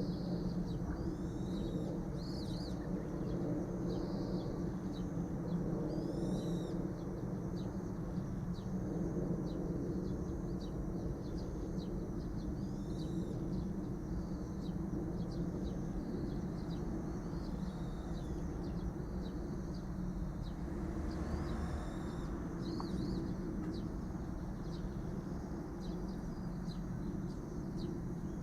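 Outdoor ambience of repeated short, high-pitched bird chirps, many times throughout, over a steady low background din.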